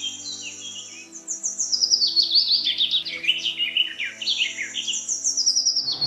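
Songbirds chirping and trilling, a dense run of quick high calls with a long high whistled note, over a faint held chord of soft background music.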